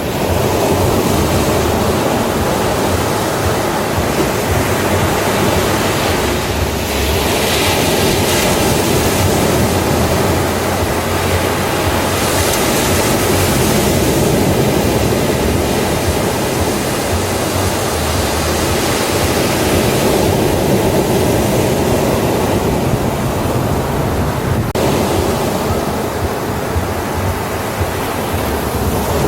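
Ocean waves breaking and washing on a beach, a continuous surf roar that swells several times.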